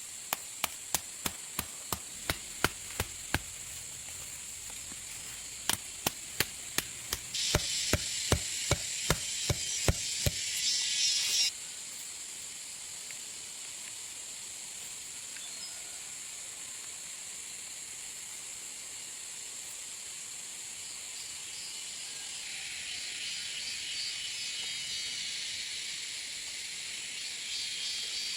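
Two runs of sharp knocks, about three a second, in the first ten seconds, like blows with a hand tool. Under them a steady high insect drone, with a louder buzzing chorus that swells twice, first around the later knocks and again near the end.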